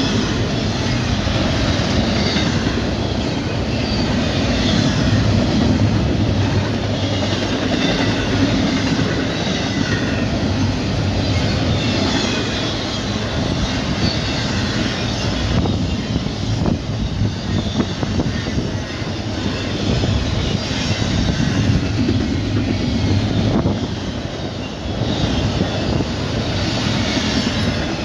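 CSX Tropicana train's cars passing at speed, about 70 mph: a steady loud rumble and rattle of steel wheels on the rails, dipping briefly near the end.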